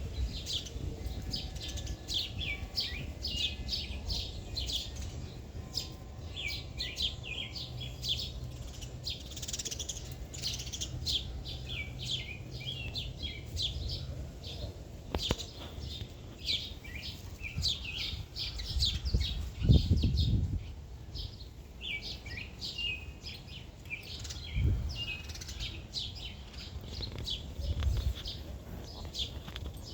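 Small birds chirping continuously, many short high chirps overlapping in a busy chorus. A low rumble sits underneath, and a dull low thud about twenty seconds in is the loudest sound, with two fainter ones later.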